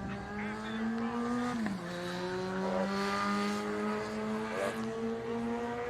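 A car engine running under way, its pitch climbing slowly, dropping sharply about one and a half seconds in as if on a gear change, then climbing again.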